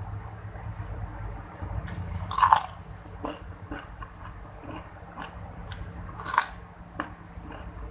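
A person biting into crunchy food and chewing it close to the microphone: two loud crunching bites about four seconds apart, with smaller crunches and chewing between.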